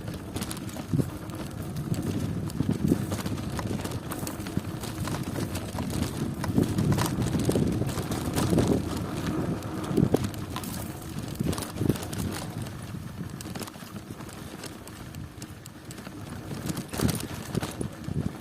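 Bicycle ridden over a rough country road: a low tyre rumble with irregular knocks and rattles from the bike as it jolts over bumps.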